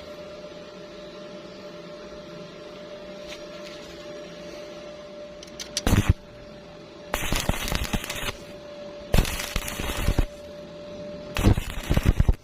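Stick-welding arc crackling in short bursts, like tack welds: a brief spark of arc, then three strikes of about a second each in the second half. A steady hum runs underneath.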